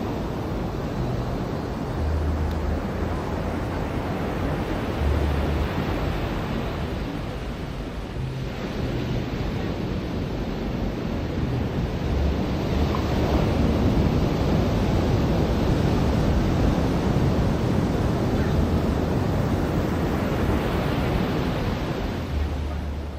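Ocean surf washing onto a beach, a steady rushing wash that swells louder about halfway through and eases off near the end, with wind rumbling on the microphone.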